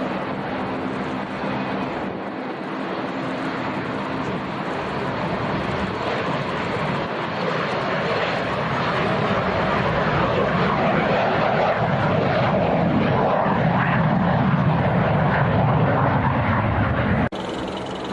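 Airplane engines growing steadily louder as the aircraft comes closer, then cut off abruptly near the end.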